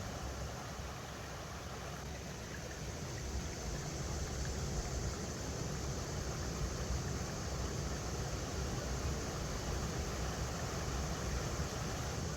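River water rushing steadily over rocks, a continuous even wash with a low rumble underneath.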